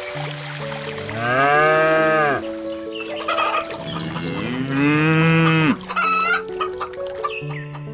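Two long cow moos, the second about two and a half seconds after the first, over light background music; short clucking calls follow near the end.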